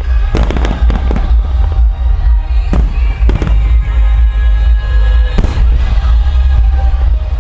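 Aerial fireworks shells bursting with several sharp booms, over loud show music with a heavy bass beat played for a music-synchronised fireworks display.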